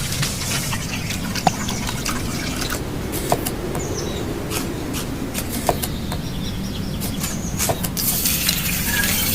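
Kitchen sounds of liquid being poured or dripping over a steady low background noise, with a few short clicks.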